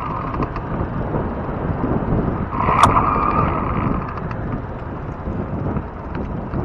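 Wind buffeting the microphone over the rolling rumble of a fat-tire e-bike in motion. About three seconds in, a brief whine rises over it together with a sharp click.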